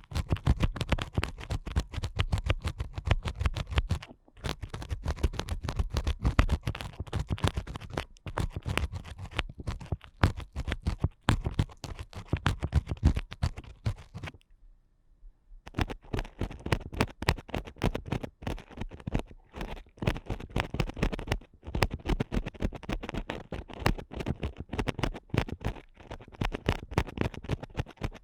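Ear picks scratching and scraping hard inside a microphone's ear, in dense runs of crackling clicks broken by short gaps, with a pause of about a second near the middle.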